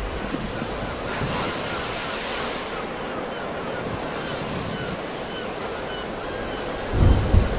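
Sea waves washing in, with a brighter surge of surf about a second in. A gust of wind buffets the microphone briefly near the end.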